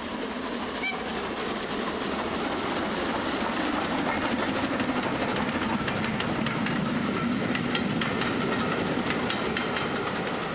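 Model train running along a layout's track, its wheels clicking over the rail joints as it passes; the running sound swells toward the middle and eases near the end.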